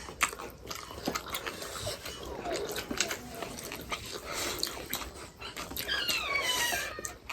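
A dog whining, with a drawn-out whine falling in pitch near the end, amid small clicks.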